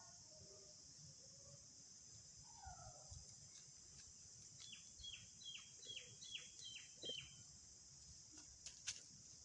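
Faint outdoor sound: a steady high insect drone, with a bird giving a run of about eight short, falling chirps about halfway through, roughly three a second.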